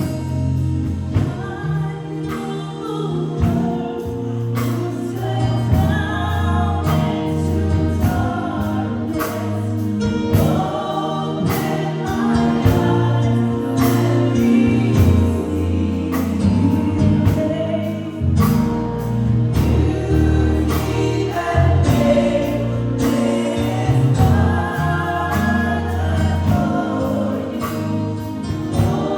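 Gospel choir singing with a worship band: steady bass, keys and a regular drum beat under the voices.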